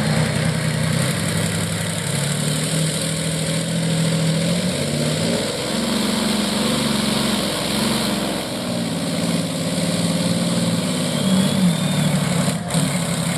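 Heavy engine of a pulling vehicle running hard under load while it drags the weighted brake sled down the track. Its pitch shifts several times as the load changes.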